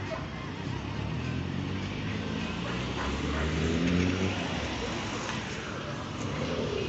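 Car engine running at low revs as a car moves off, its pitch rising near the end as it accelerates.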